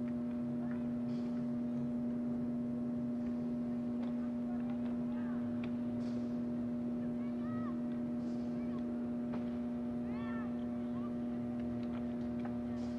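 Steady hum with many short, faint shouts and calls from soccer players and spectators scattered over it.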